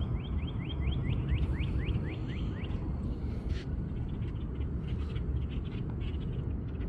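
A bird sings a quick series of about a dozen clear downslurred whistled notes, about four or five a second, which stop about two and a half seconds in. Under it runs a steady low rumble of wind or distant traffic.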